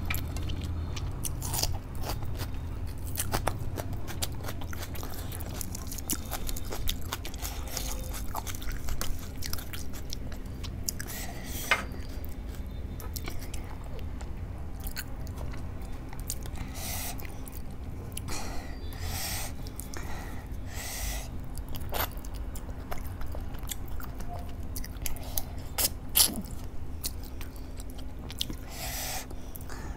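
Close-miked chewing of a person eating rice and fish curry with her hand, with many scattered sharp smacks and clicks. A faint steady hum runs underneath.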